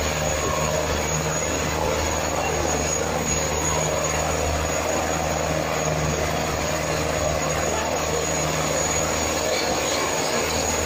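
Preet 6049 tractor's diesel engine running steadily with a deep, even drone.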